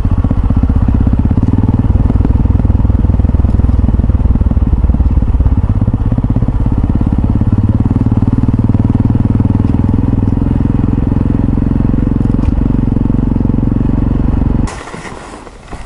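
Yamaha XT660Z Ténéré's single-cylinder engine running steadily under way, a dense low pulsing. It cuts off abruptly about a second before the end, leaving quieter wind noise.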